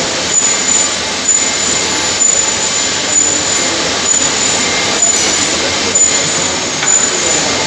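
Heavy-duty lathe running: a loud, steady machine noise with a light knock about once a second.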